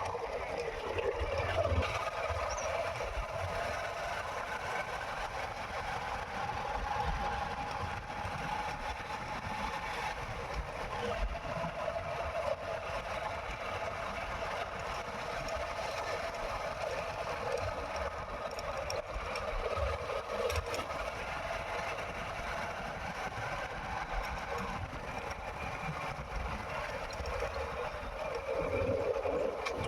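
Motorcycle engine running steadily as the bike rides along, with a continuous drone and road noise.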